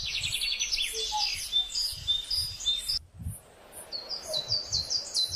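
Small birds chirping and twittering, a dense run of high chirps. A sudden brief gap about three seconds in, then a quick string of repeated high chirps.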